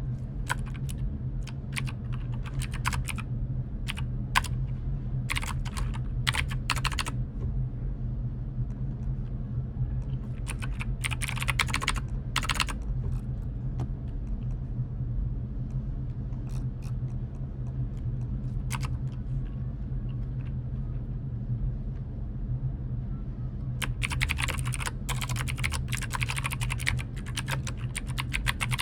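Typing on a computer keyboard in short bursts of rapid key clicks with pauses between, and a long flurry near the end. A steady low hum runs underneath.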